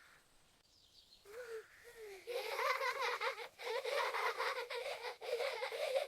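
A high-pitched voice laughing and chattering. A few short rising and falling calls come first, then a long run of rapid giggling chatter from about two seconds in.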